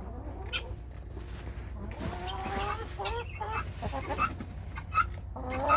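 Fowl clucking in short, quiet, repeated calls, starting about two seconds in.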